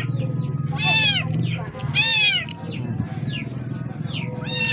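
Baby kitten meowing loudly: two strong meows about a second apart, a third near the end, and fainter short high calls in between, over a steady low hum.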